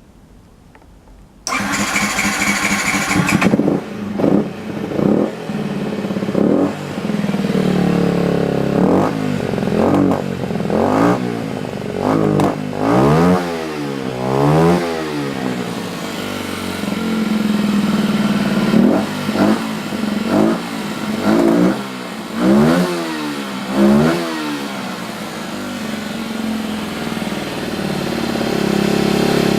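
Husqvarna TE125's Yamaha WR125R-based 125 cc single-cylinder four-stroke engine being started: about a second and a half in the starter cranks for a couple of seconds, the engine catches, and it then idles with repeated throttle blips, the revs rising and falling several times.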